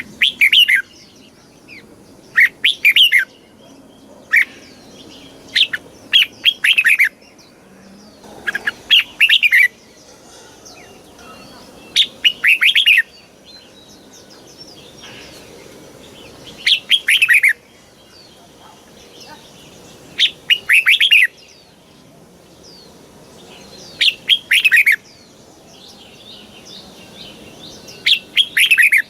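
Red-whiskered bulbul singing: short, loud phrases of quick whistled notes, repeated every three to four seconds. Fainter bird chirps sound in the gaps between phrases.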